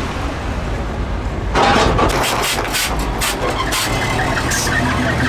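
A truck engine runs low throughout. About a second and a half in, a sudden louder burst like an engine starting is followed by a few sharp clicks, and then it settles into a steady idle.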